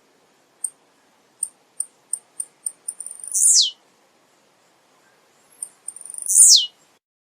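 Male blue-black grassquit (tiziu) singing: a run of short high ticks followed by a loud, sharply falling note, twice, about three seconds apart.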